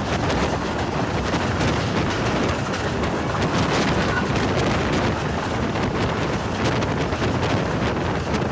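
Wind buffeting the microphone held out of a moving passenger train's window, over the steady running noise of the train on the track.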